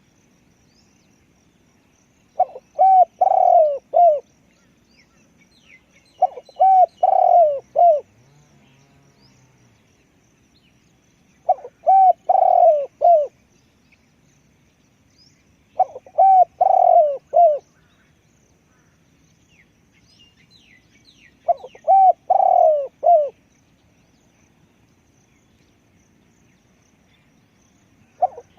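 Spotted dove cooing its loud phrase of a few low, quickly repeated coos, again and again about every four to six seconds. Faint chirps of small birds between the phrases.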